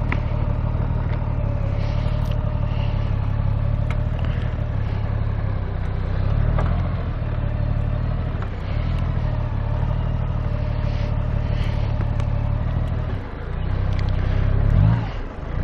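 Honda Gold Wing F6B's flat-six engine running steadily while riding, with road noise. Near the end the engine note drops, then swells and rises again.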